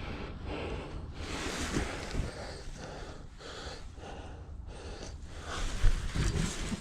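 A person breathing heavily, with a rough, noisy rustle.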